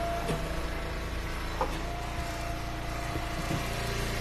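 Wood splitter's engine running steadily at a constant speed, with a few light knocks.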